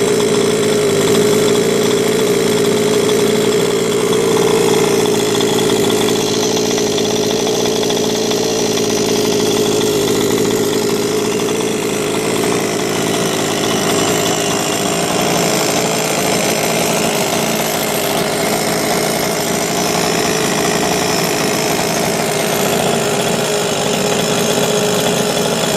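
Rovan 45cc two-stroke engine of a large-scale RC car idling steadily through a Victory Bigbore expansion pipe, a break-in idle on its first run.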